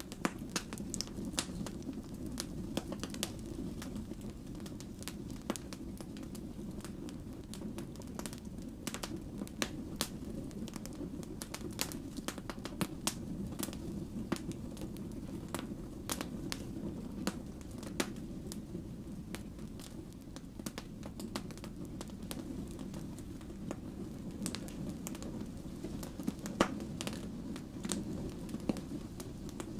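Wood fire burning with a steady low rumble of flames and frequent irregular sharp crackles and pops from the burning logs, a few louder pops among them, one of the sharpest about two-thirds of the way through.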